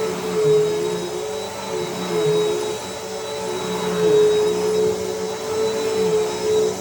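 Bissell PowerForce Helix upright vacuum cleaner running on carpet: a steady motor whine whose level rises and falls about every two seconds.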